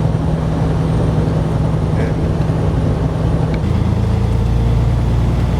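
Semi truck running down the road, heard from inside the cab: a steady low engine and road drone, the engine note changing about two-thirds of the way through.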